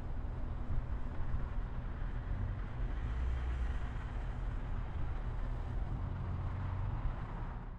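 A train running with a steady low rumble and engine hum.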